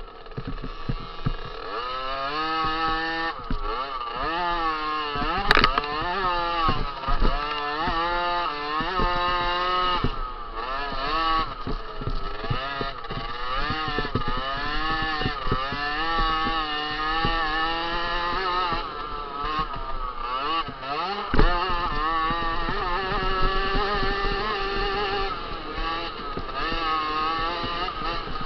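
Small 50cc two-stroke motocross bike engine revving hard and backing off again and again as it accelerates through the gears and slows for corners. A sharp click comes about five and a half seconds in.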